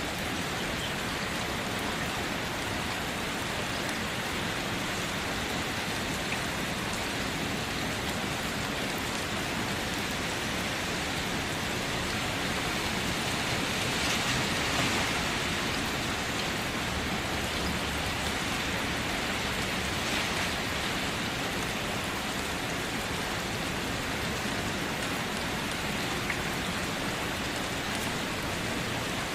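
Steady rain falling, an even dense hiss of drops that swells a little about halfway through.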